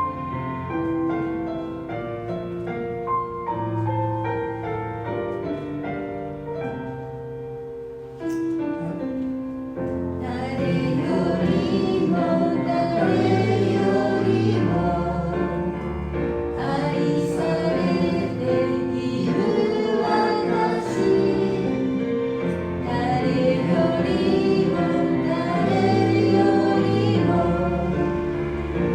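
Live worship music: a praise song with keyboard accompaniment. The first ten seconds or so are mostly instrumental, then voices singing come in and the music grows fuller and louder.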